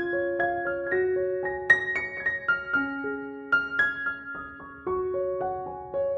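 Solo piano music: gentle, slow melody over sustained bass notes, a new phrase starting about halfway through.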